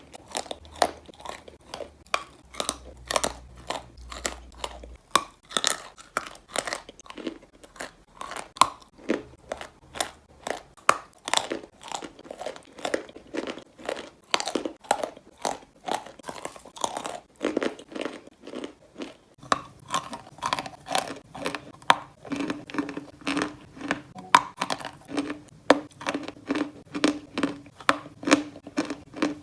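Chalk being bitten and chewed, a continuous series of crisp crunches about two a second. About two-thirds of the way in, the chewing settles into a more even rhythm.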